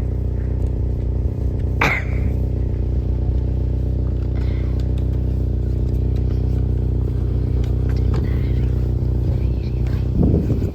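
An engine running steadily, a constant drone with no revving, with one sharp click about two seconds in.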